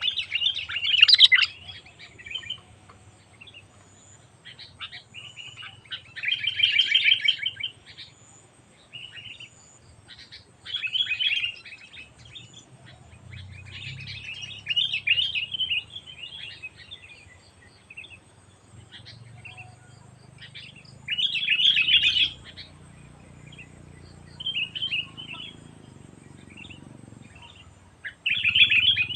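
Sooty-headed bulbul singing: bursts of bubbly, chattering song phrases every few seconds, with short pauses between them.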